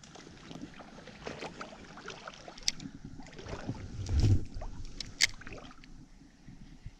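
Irregular splashing and knocking of someone moving through a shallow stream, with a heavier low thump about four seconds in.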